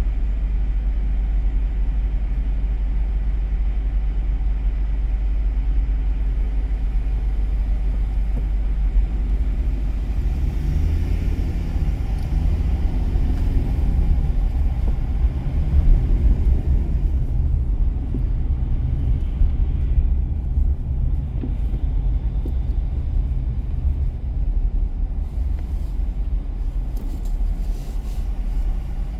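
Car driving on city streets: a steady low rumble of engine and road noise, growing a little fuller for several seconds around the middle.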